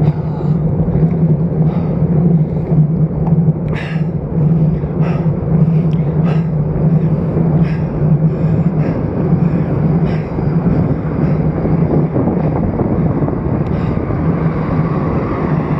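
Road bike riding along: steady wind rush and road rumble on a stem top-cap–mounted action camera's microphone, with scattered short clicks and ticks from the bike.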